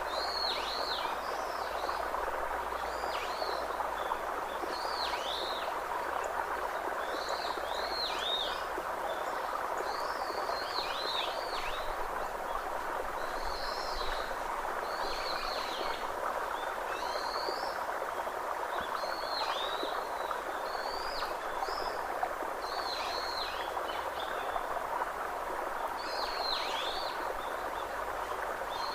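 A bird calling over and over in short, down-slurred chirps, often in pairs, every second or two, over a steady rushing hiss.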